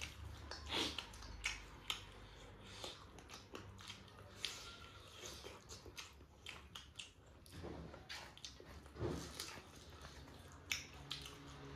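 Close-up eating sounds: chewing chicken with irregular wet mouth clicks and lip smacks.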